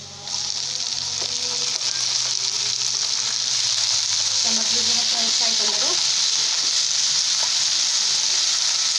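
Chopped tomatoes hitting hot refined oil and onions in a non-stick frying pan: a loud sizzle breaks out suddenly a moment in and carries on steadily as they are stirred in with a spatula.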